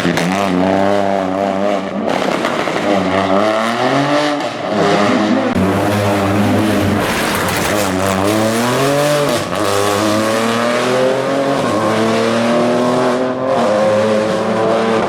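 Rally car engine revving hard, its pitch climbing and dropping repeatedly as it accelerates and shifts through the gears.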